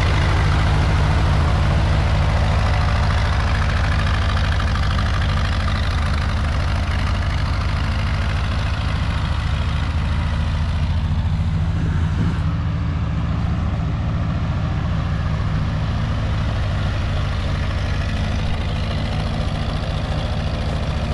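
Freshly rebuilt Ford 8N tractor's four-cylinder engine running steadily, its note easing a little about halfway through.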